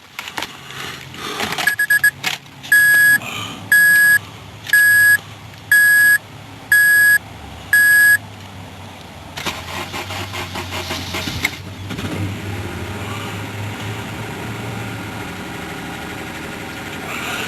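Dashboard warning chime beeping six times in a steady rhythm, then a 2006 Honda Civic Coupe's engine cranking for about two seconds on a cold start, catching and settling into a steady idle.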